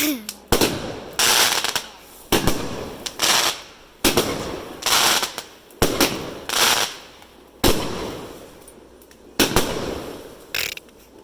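Fireworks going off: a series of sharp bangs at irregular intervals, about one a second, each trailing off in a crackling hiss.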